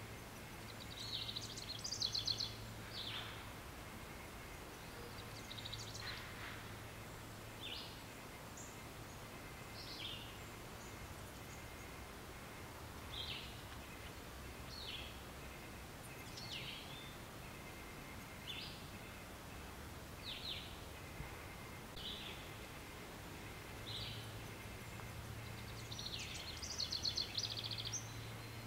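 Birds calling in a steady outdoor background hiss: short, high, falling chirps every second or two, with a longer rapid trilling phrase near the start and another near the end.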